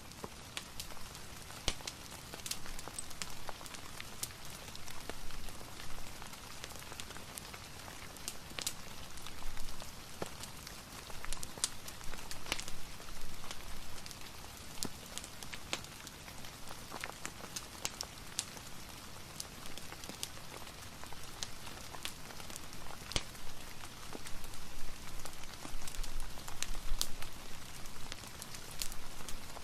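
Steady rain hissing and pattering, mixed with a fireplace's crackling: scattered sharp pops throughout.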